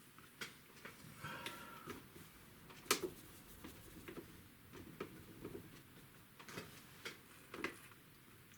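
A paintbrush tapping and dabbing against a watercolour palette and paper: faint, irregularly spaced light clicks and taps, the loudest about three seconds in.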